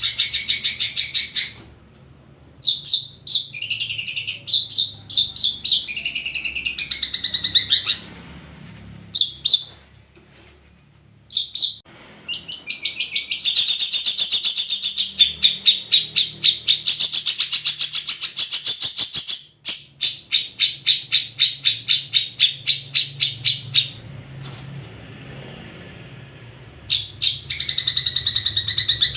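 Long-tailed shrike (cendet) singing: loud runs of rapidly repeated chattering notes, broken by a few short pauses.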